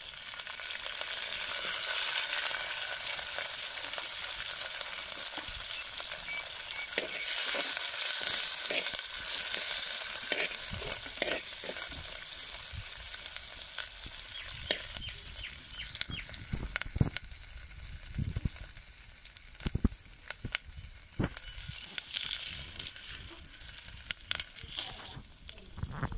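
Curry leaves and sliced onion sizzling in hot oil in a clay pot while the tempering for the gravy is fried, with a metal slotted spoon scraping and clicking against the pot as it is stirred. The sizzle is loudest at the start and flares again about seven seconds in, then dies down gradually.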